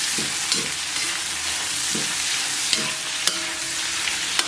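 Slices of pork belly with scallion and ginger sizzling in hot oil in a pan while being stir-fried, with a few scrapes and sharp clicks of the utensil against the pan.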